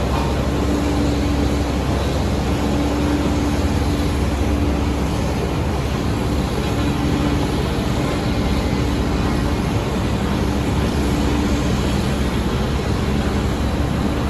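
Diesel engine of heavy road-construction machinery running steadily under work, with a heavy low-pitched drone and a steady hum above it.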